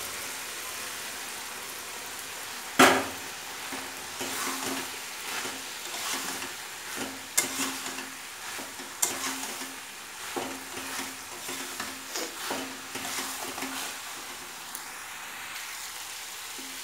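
Fried raw jackfruit pieces sizzling in oil and masala in a metal kadai while a spatula stirs them, scraping and knocking against the pan. A loud clang of metal on the pan comes about three seconds in, with sharper knocks again at about seven and nine seconds.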